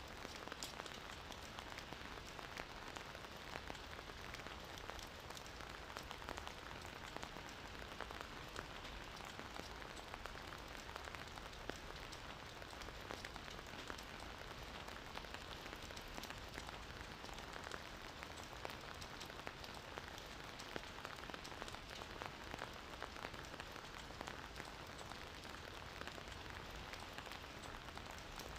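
Gentle, steady rain falling, with many small individual drop ticks scattered through it.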